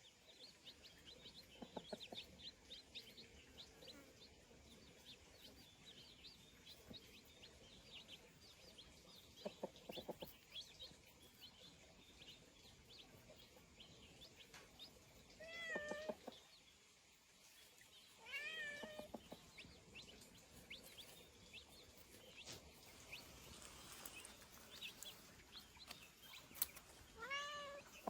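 A cat meowing three times: about halfway through, again a few seconds later, and near the end. Faint bird chirps run underneath.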